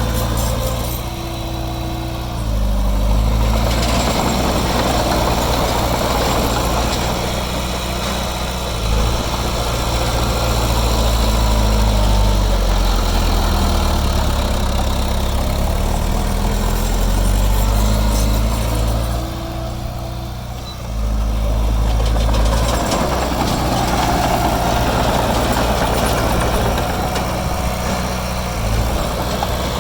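Heavy diesel engine of earthmoving machinery running under varying load, its speed rising and falling as it works, easing off briefly about two seconds in and again about twenty seconds in.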